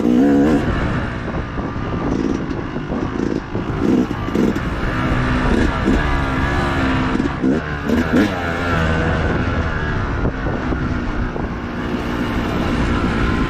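Dirt bike engine revving up and down with quick, repeated throttle changes, its pitch rising and falling every second or two.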